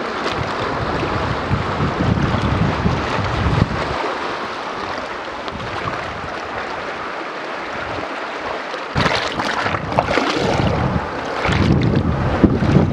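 Strong wind blowing over the microphone: a steady rushing noise with heavy low buffeting gusts at the start, about two-thirds of the way through and again near the end.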